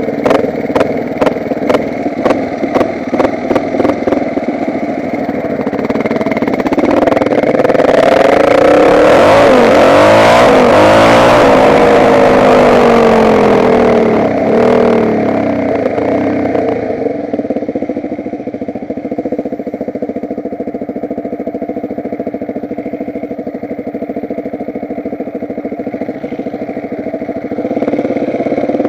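Off-road motorcycle engine being ridden. Regular knocks come about two or three times a second over the first few seconds. The engine then revs up loud, its pitch rising and falling through the middle, settles to a quieter, steadier note, and picks up again near the end.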